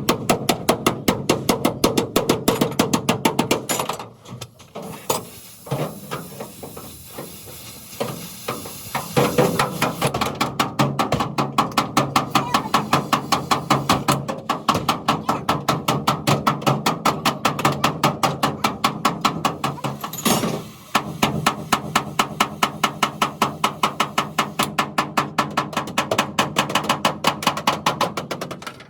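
Fast, even hammering on sheet metal, about four to five blows a second, the panel ringing under the blows; it breaks off briefly a few times and picks up again.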